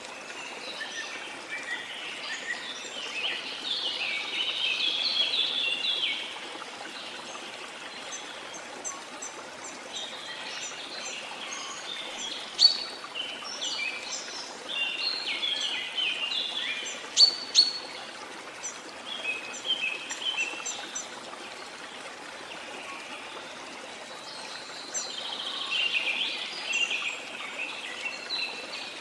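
Small birds chirping and twittering in three bouts, with a few sharp loud notes in the middle, over a steady wash of sea water.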